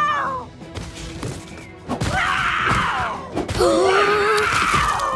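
Cartoon soundtrack of background music with wordless character cries and groans, including a wobbling pitched cry about four seconds in.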